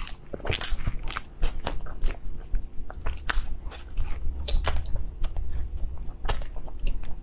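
Close-miked chewing and biting of soft ice cream bread: irregular mouth clicks and smacks, several a second.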